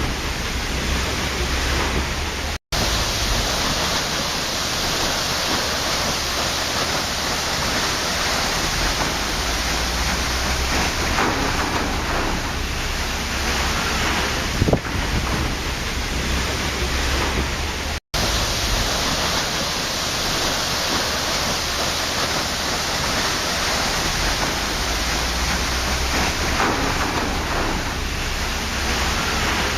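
Waterfall rushing as a steady, dense hiss of falling water. It cuts out to silence for an instant twice, about three seconds in and again around eighteen seconds.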